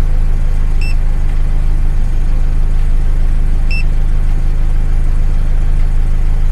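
VW Golf GTI Mk5's 2.0-litre turbocharged four-cylinder engine idling steadily, heard from beside the open driver's door. Two short electronic beeps come over it, one about a second in and one just before four seconds.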